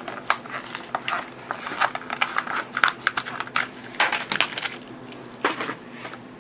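Hot Wheels blister card being opened by hand: a quick run of irregular crackles and clicks of stiff plastic bubble and card being pried and torn apart, with a louder flurry about four seconds in and another near five and a half seconds.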